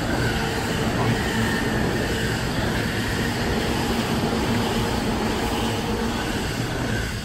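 Keihin-Tohoku Line E233 series electric commuter train running past below, a steady rumble of wheels on rails with a faint steady hum in it.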